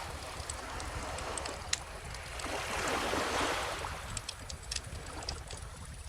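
Bonfire crackling with scattered sharp pops, while a gentle ocean wave washes in, swelling to a peak around the middle and fading out.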